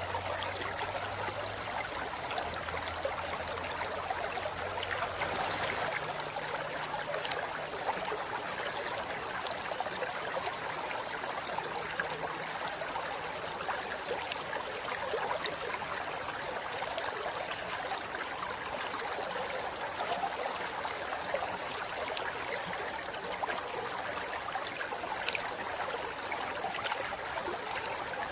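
River water flowing over rocks: a steady rush, with small splashes and gurgles throughout.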